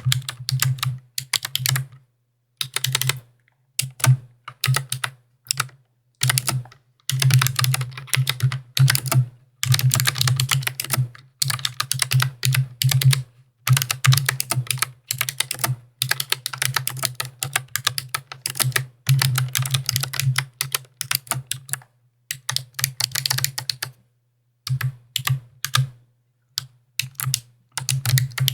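Mechanical keyboard typing: fast runs of crisp keystroke clicks, each with a low thock underneath, broken by short pauses a few times.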